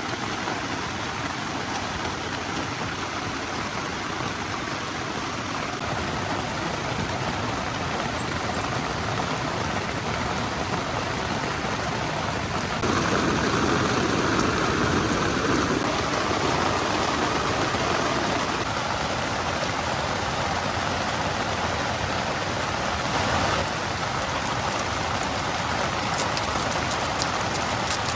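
Heavy rain falling with rushing water from a nearby waterfall and stream, a steady dense hiss that swells louder for several seconds about halfway through.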